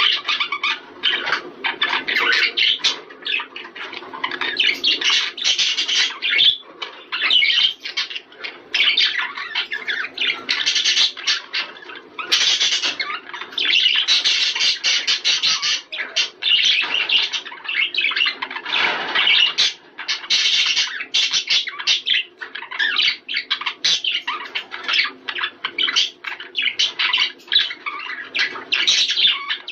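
A flock of budgerigars chattering and warbling without a break, many busy high-pitched calls overlapping.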